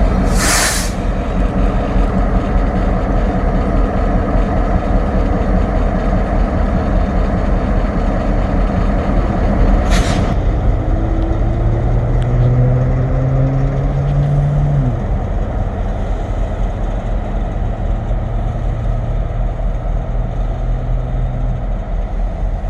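Freight train's diesel locomotives running with a steady heavy rumble, with two short sharp bursts of air hiss, about half a second in and about ten seconds in.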